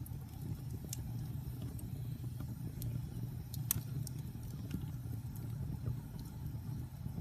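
Wood fire burning in a fireplace: a steady low rumble of flames with sharp pops and crackles scattered through, the loudest snap near the middle.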